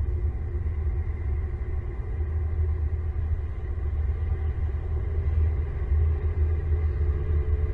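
A steady low rumble that wavers in strength, with a faint steady hum above it.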